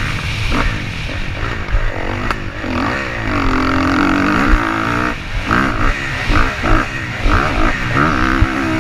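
Motocross bike engine revving, its pitch rising and falling again and again as the throttle opens and closes.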